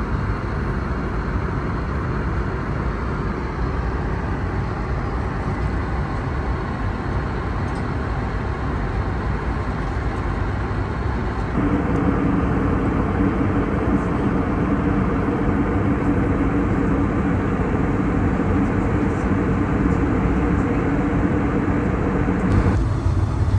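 Steady rushing cabin noise inside an Airbus A321neo. It changes suddenly about halfway through, when a steady hum appears, and changes again near the end.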